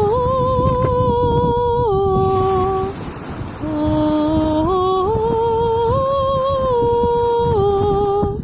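A woman's voice humming or singing slow, wordless held notes that step up and down, with a short break about three seconds in. A steady low rumble runs underneath.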